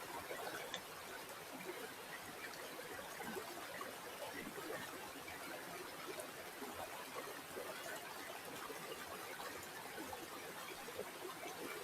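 River water flowing and splashing, a steady rush with many small gurgles.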